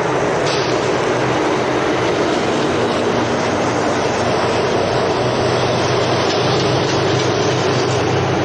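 Heavy lorry engine and road noise, steady throughout, with a low engine hum under a wide rushing noise of tyres and wind.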